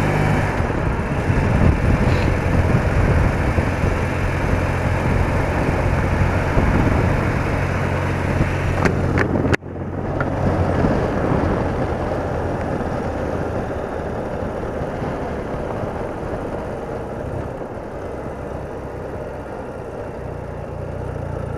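BMW R80RT's air-cooled flat-twin engine running under way, with rushing wind noise. The sound cuts off abruptly for a moment about ten seconds in, and the engine is quieter after it.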